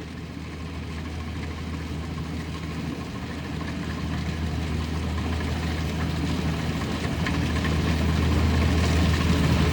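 Kubota DC70 combine harvester's diesel engine and threshing machinery running steadily while harvesting lodged rice, growing gradually louder.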